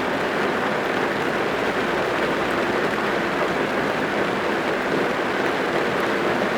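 Heavy rain falling on a car's roof and windows, heard from inside the car: a steady, even wash of rain with no pauses or single drops standing out.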